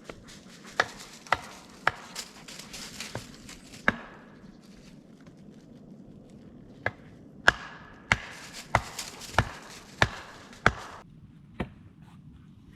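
Wood being chopped: about a dozen sharp strikes in two runs, roughly one every half second or so, the loudest in the second run.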